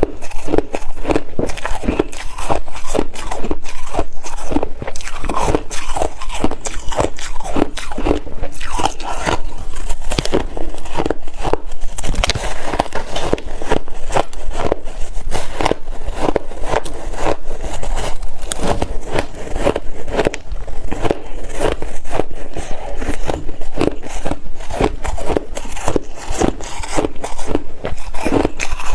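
A person biting and chewing ice: a continuous run of crisp crunches, several a second.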